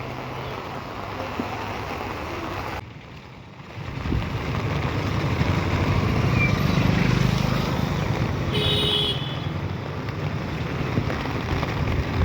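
Outdoor noise: a steady rush with a low rumble that drops briefly about three seconds in, then comes back louder. A short horn toot about eight and a half seconds in.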